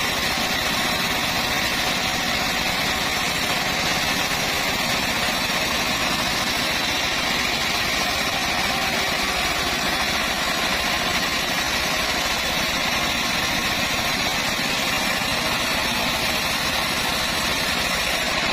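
Engine-driven band sawmill (gergaji selendang) running steadily, its engine and band saw making a constant mechanical din that does not change in pitch or level.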